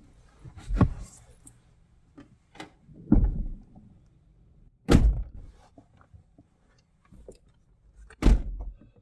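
Four dull thumps a few seconds apart, among quieter knocks and rustles, inside a car's cabin.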